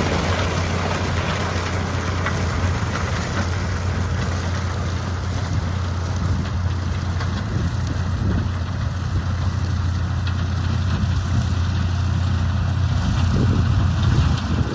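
Heavy farm machine engine running steadily, a deep constant drone with an even rushing noise over it, swelling a little near the end.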